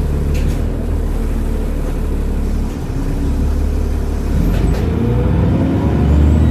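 Transbus Trident double-decker bus's diesel engine running steadily, with a couple of sharp clicks. About four seconds in it gets louder and a rising whine begins as the engine picks up.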